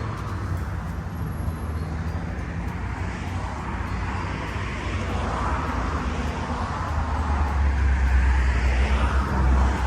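Road traffic with a low car engine rumble that builds to its loudest near the end as a vehicle passes close by.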